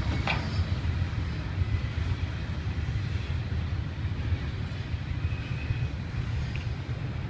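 Double-stack container freight train rolling past at a distance: a steady low rumble of the cars on the rails, with a short high squeak just after the start.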